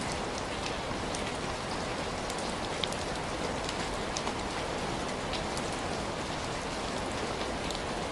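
Steady rain falling, with scattered small sharp ticks through it.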